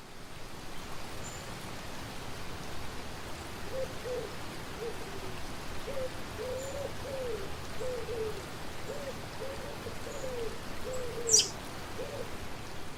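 A bird giving a series of about a dozen short, low hooting calls, each rising and falling in pitch, over a steady outdoor hiss. One sharp click sounds near the end.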